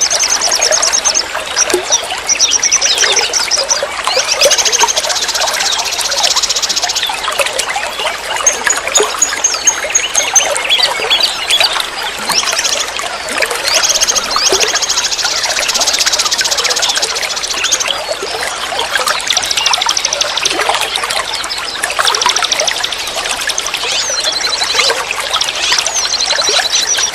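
River water flowing and trickling steadily, with small birds singing bursts of fast high trills over it every few seconds.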